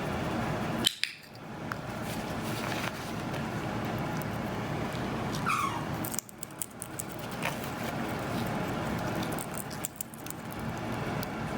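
A single short, falling chirp from a Quaker parrot about halfway through, over a steady background hiss, with a sharp click about a second in.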